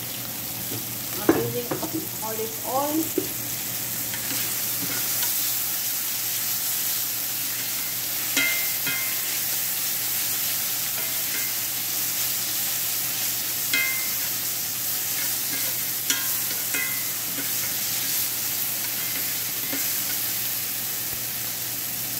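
Shrimp, garlic and chili paste sizzling in oil in a cast-iron skillet, stirred and scraped with a metal spatula. There is a clatter of knocks a second or two in, then a few single ringing clinks of the spatula against the pan.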